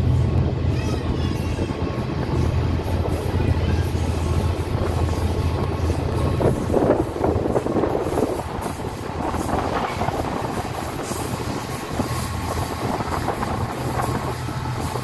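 Passenger train running along the track, heard from a coach window: a continuous rumble of wheels on the rails. A low steady drone fades out about six and a half seconds in, and a short louder rush follows.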